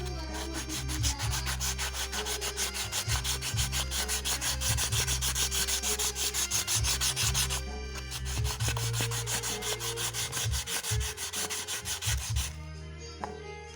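A camshaft lobe being sanded by hand with an abrasive in quick, even back-and-forth strokes. There is a brief pause about two-thirds through and a quieter stretch near the end. The work smooths an uneven lobe profile, which makes the engine noisy.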